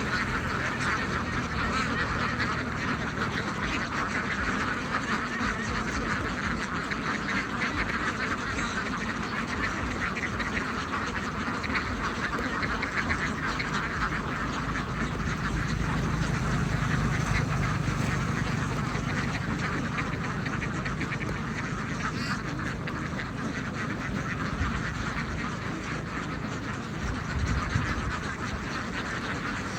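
A large flock of domestic ducks quacking all together in a dense, steady chorus.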